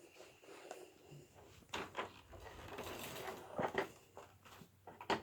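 Handling noises from a vintage Hoover Elite upright vacuum: a few sharp plastic clicks and light knocks, with a faint rustling stretch in the middle. The motor is not running.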